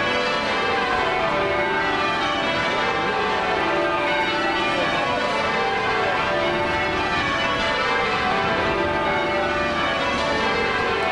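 Church bells ringing a continuous peal, many bells struck in overlapping succession without a pause.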